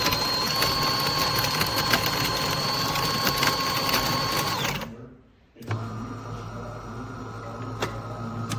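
Small electric motors whirring. One whine with fine clicks stops about five seconds in, and after a brief pause a second, lower hum starts.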